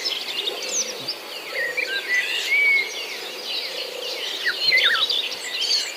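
Many small birds chirping and twittering at once: a dense chorus of short, overlapping high calls with quick rising and falling notes.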